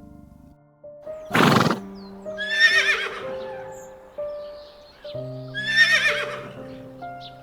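A horse whinnying twice, each time a sharp noisy blast followed by a wavering, high call, over soft background music.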